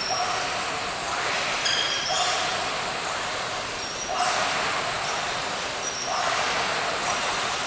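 Composed noise piece: swells of hiss, like surf, recurring about every two seconds, each opening with a short low tone and brief high pings.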